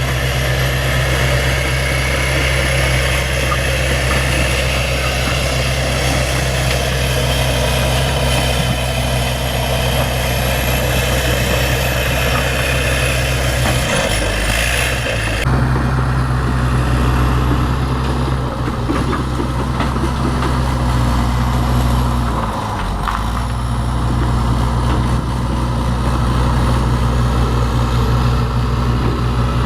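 Bulldozer's diesel engine running steadily, its pitch dipping briefly twice.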